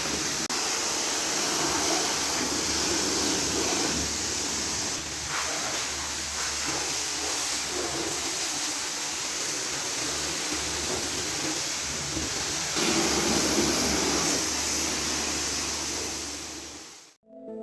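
A car-cleaning machine running with a steady hissing rush and a low hum underneath, fading out near the end.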